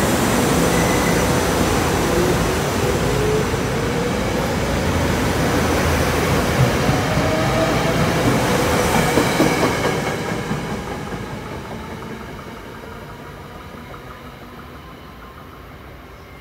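SEPTA Regional Rail electric multiple-unit train of Silverliner IV cars rolling past close along the platform: steady wheel-and-rail noise with a faint whine that shifts in pitch. From about ten seconds in it fades away as the train recedes.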